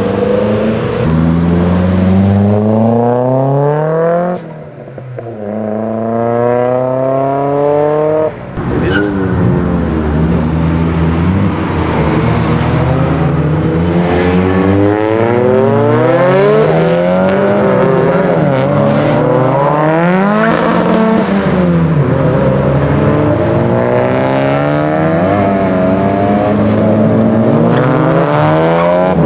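Modified Nissan Silvia engine revving hard: the pitch climbs steeply, drops sharply about four seconds in, climbs again, then rises and falls over and over as the throttle is worked on and off.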